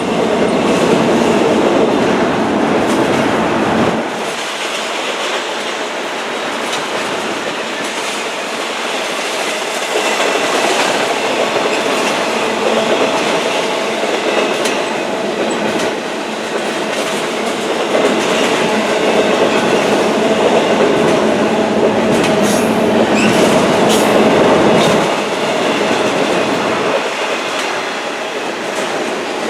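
Train cars rolling past, a steady clatter of wheels over the rails.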